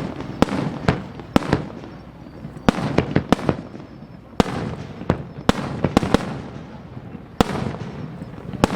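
Fireworks display: more than a dozen sharp bangs from bursting fireworks shells at uneven intervals, each trailing off in a low rumbling echo.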